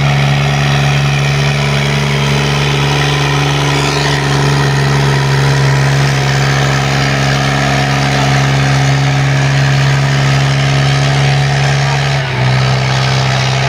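Powertrac tractor's diesel engine running steadily at a constant speed, its pitch stepping down slightly about twelve seconds in.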